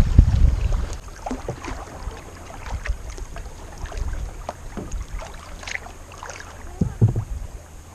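Kayak paddle dipping and dripping on calm river water: scattered small splashes and drips. Wind buffets the microphone with a low rumble for about the first second.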